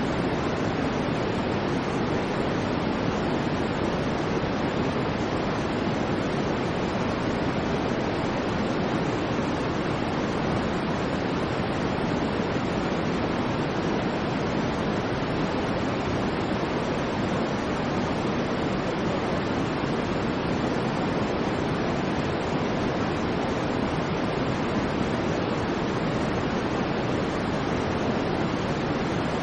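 Steady, unchanging white noise, weighted toward the low-middle range so that it sounds like a soft, deep rush rather than a thin hiss, with no swells, breaks or other sounds.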